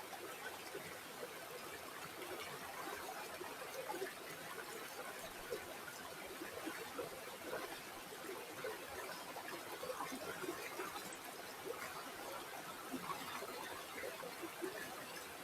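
River water flowing over stones, with a steady rush and a constant patter of small gurgles and splashes.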